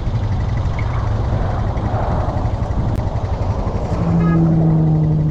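A vehicle engine running, with rapid low pulsing. About four seconds in, a steady humming tone comes in and holds.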